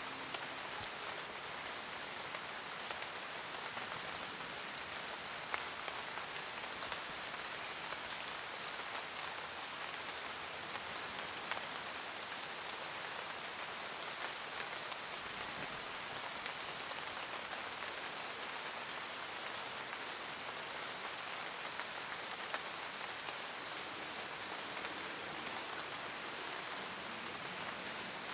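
Steady rain falling in a forest, an even hiss with individual raindrops ticking and pattering on leaves throughout.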